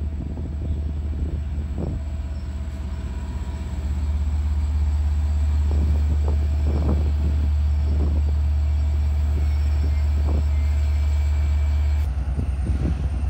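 Long Island Rail Road diesel locomotive 423 running up to and past at close range with a heavy low rumble that grows louder about four seconds in. The sound changes abruptly near the end.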